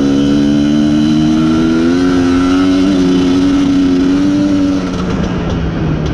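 IZh Planeta Sport's single-cylinder two-stroke engine running at raised revs, its pitch creeping slightly up and then falling back about five seconds in. The owner is tuning the carburettor and blames a lean mixture for the engine choking when the throttle is opened.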